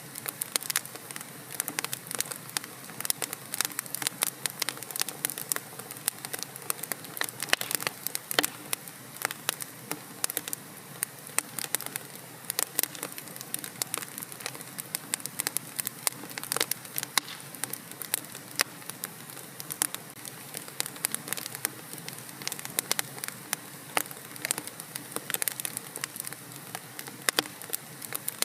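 Wood fire burning in a fireplace: a steady hiss with irregular sharp crackles and pops throughout.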